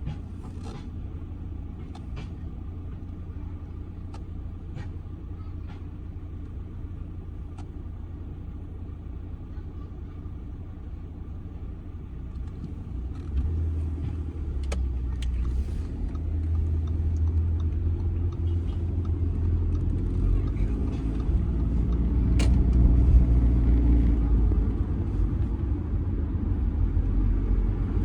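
2007 Audi A6 2.0 TDI four-cylinder diesel car driving, with a steady low engine and road rumble that grows louder about halfway through.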